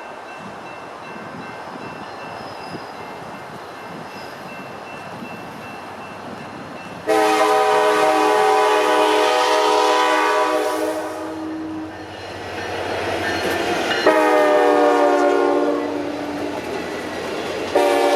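Alaska Railroad diesel locomotive's air horn: after several seconds of steady rumbling noise, one long blast sounds about seven seconds in, a second, shorter blast follows a couple of seconds later, and a third begins right at the end.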